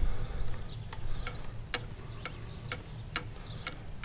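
Light, sharp clicks about twice a second as a hose elbow fitting is threaded onto the fuel filter housing.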